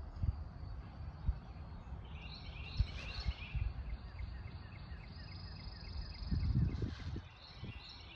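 A songbird singing quick phrases of short high chirps, repeated a couple of times, over a low rumble with scattered thumps. The rumble and thumps are loudest about two-thirds of the way in.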